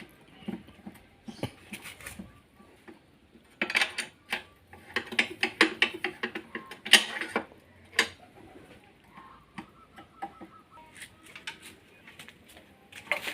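Metal clicks and clanks of hand tools working on a diesel car engine being stripped down, busiest between about four and eight seconds in, then sparser.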